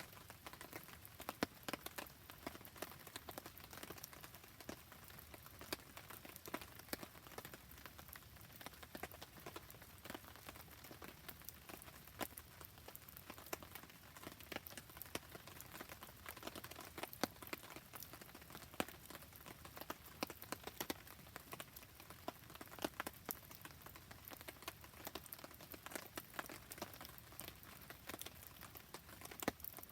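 Rain pattering steadily, with a campfire crackling through it as many short sharp pops and clicks.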